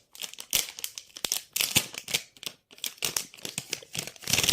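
Packaging of a new paint set being crinkled and torn open by hand, with irregular crackles and rustles and a louder rustle near the end.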